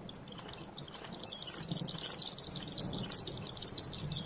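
Small birds chirping rapidly and continuously in a dense, high-pitched twitter, several chirps a second, starting abruptly.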